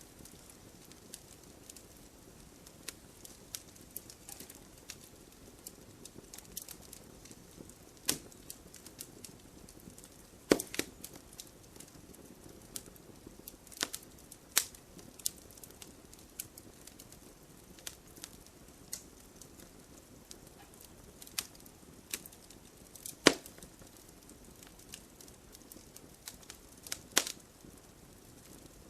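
Wood fire burning, crackling with scattered sharp pops over a soft hiss; the loudest snaps come about eight, ten and a half, fourteen and a half, twenty-three and twenty-seven seconds in.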